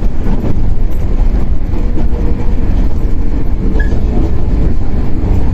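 Shinano Railway 115 series electric multiple unit running, heard inside motor car KuMoHa 115-1013: a heavy, steady rumble of wheels and running gear on the rails, with a faint tone from the traction motors in the middle.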